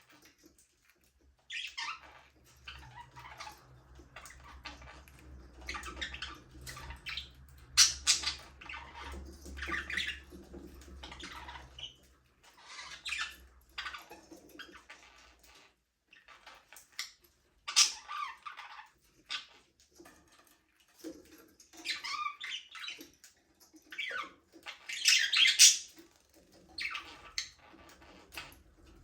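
Budgerigars chirping and chattering in short, irregular bursts, with a few louder calls among them. A low hum lies under the first half.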